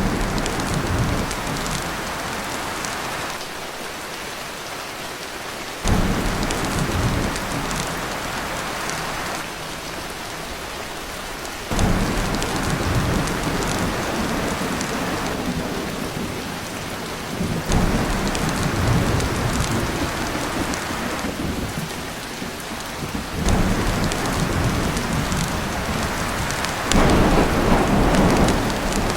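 Heavy rain drumming on a tin roof, with low rolls of thunder that swell up suddenly every few seconds and fade back into the rain.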